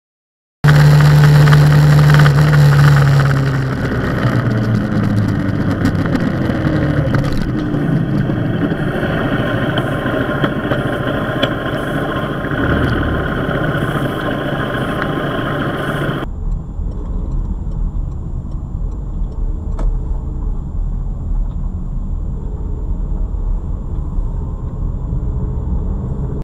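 A motor vehicle engine running loud, its note dropping as it slows over the first few seconds, then steady. About sixteen seconds in, the sound cuts to a steadier, duller low road rumble.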